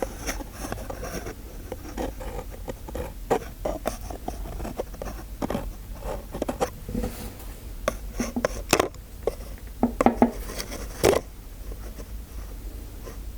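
Dentist-roleplay ASMR sounds close to the microphone: irregular small clicks, taps and scrapes of handled tools, with a few sharper clicks in the second half and quieter near the end.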